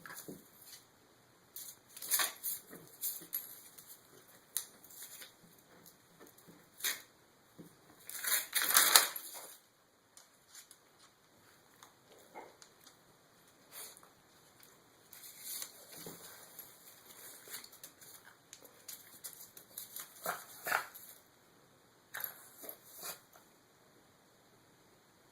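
A dog rubbing and rolling on paper perfume sample cards: the paper rustles and crinkles in irregular short bursts, with a longer, louder stretch about nine seconds in.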